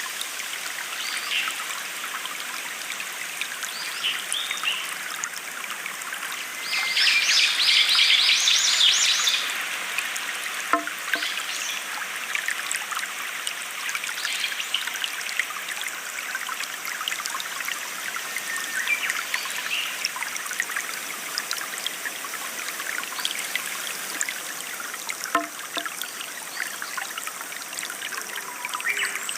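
Small stream of water trickling and flowing steadily, with birds chirping now and then. About seven seconds in, one bird sings a loud, rapid song for two or three seconds.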